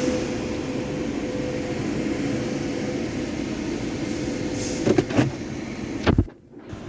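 Sonny's car wash tunnel equipment running, a steady mechanical drone with a faint hum under it. A couple of sharp knocks come about five seconds in and a louder one just after six, then the sound drops away abruptly for a moment.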